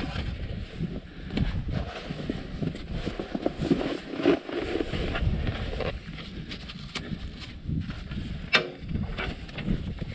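Wind buffeting the microphone with a low rumble, over scattered clicks and knocks of tools and metal parts being handled, one sharper knock near the end.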